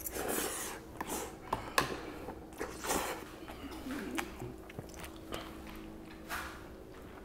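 A person chewing a mouthful of spicy ramen noodles, with small mouth clicks and short puffs of breath out through the mouth.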